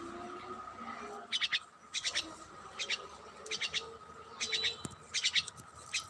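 A bird giving a series of short, harsh rattling calls, each a quick run of clicks, repeated about every 0.7 s from about a second in. A steady thin tone sits underneath.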